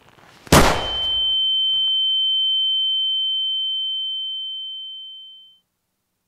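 A single pistol shot about half a second in, followed by a steady high-pitched ringing tone that fades out about five seconds later: the ear-ringing effect used in film for a gunshot heard at close range.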